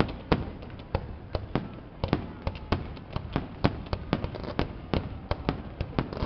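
Aerial fireworks going off in a rapid, irregular string of sharp bangs and pops, about four a second, as comets are fired up from the harbour.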